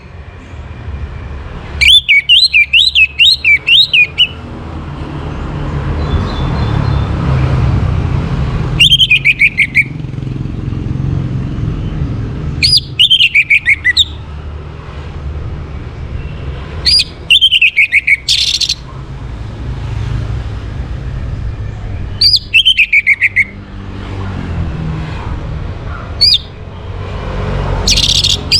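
Orange-headed thrush singing short, loud phrases of rapid whistled notes that slide downward, repeated every four to five seconds, used as a lure song to bring a captive bird into breeding condition. A steady low rumble lies under it.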